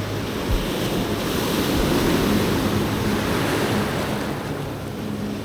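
Ocean surf breaking and washing up the beach, swelling in the middle and easing near the end, with wind on the microphone.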